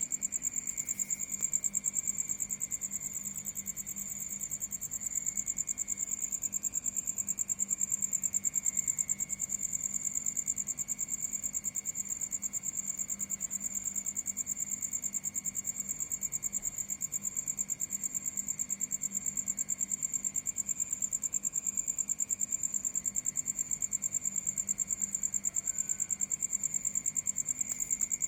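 Crickets chirring steadily at night, a continuous rapid high-pitched trill with a fainter lower insect or frog chorus beneath.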